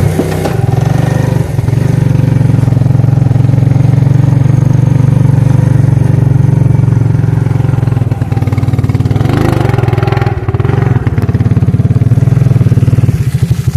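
Suzuki King Quad ATV's single-cylinder four-stroke engine running loud and steady. Its note dips briefly about two-thirds of the way through, and turns to a pulsing throb near the end.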